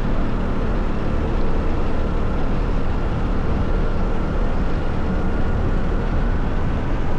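Motorcycle running at a steady cruise, its engine under a steady low rumble of road and wind noise.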